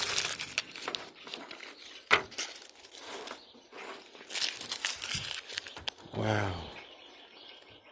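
Paper wrapping of a firecracker pack crinkling and rustling as it is handled and opened, in uneven bursts with a sharp click about two seconds in.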